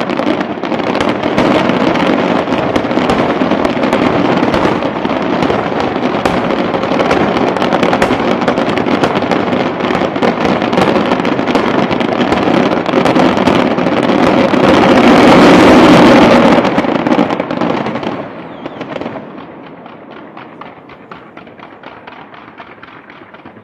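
Aerial fireworks closing barrage: a dense, continuous volley of bangs and crackling that builds to its loudest about two-thirds of the way through, then dies away to faint scattered crackles.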